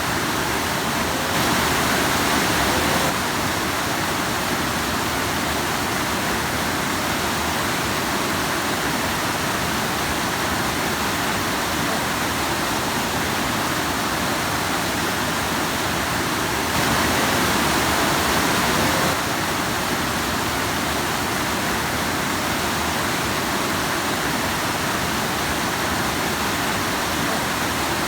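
Rushing stream splashing over rocks: a steady rush of water that swells slightly twice.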